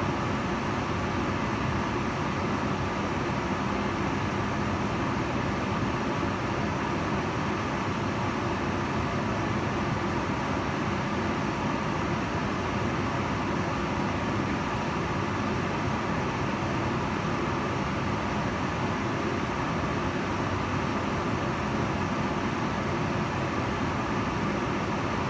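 Kitchen range hood fan running steadily: a constant rushing of air with a faint hum.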